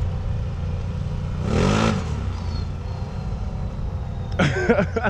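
Can-Am 1000 engine running steadily, heard as a low rumble. A person makes a short cough-like vocal sound about a second and a half in, and a voice starts near the end.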